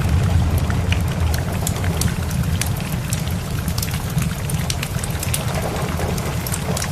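Ambience mix of a crackling wood fire and steady rain, with many sharp crackles over a low rumble of thunder that eases a little after the first couple of seconds.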